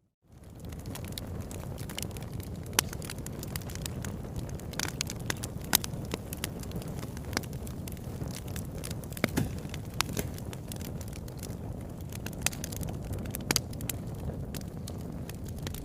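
Wood fire burning in a fireplace: a steady low rush of flames with frequent sharp crackles and pops at irregular intervals. It rises quickly out of a brief near-silence at the very start.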